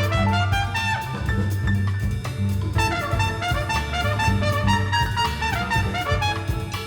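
Mixed chamber ensemble of winds, brass, strings, piano and percussion playing an instrumental passage, with trumpet and trombone lines prominent over a steady bass and regular percussion strokes.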